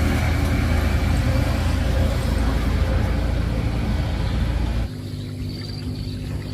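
An engine running steadily with a deep rumble. About five seconds in it drops suddenly to a quieter, lighter hum.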